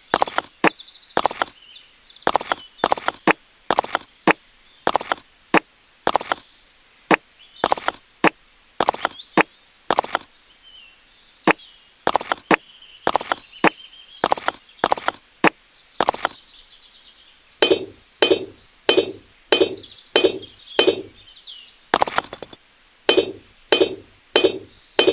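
Repeated sharp clinking taps on miniature bricks, about two a second. Near the end the taps turn fuller and duller.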